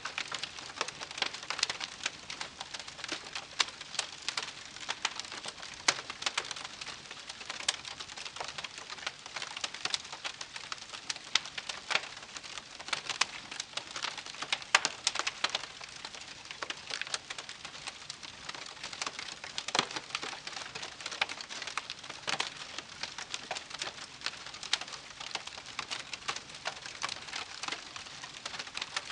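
Wood campfire crackling, with frequent irregular sharp pops and snaps over a steady hiss.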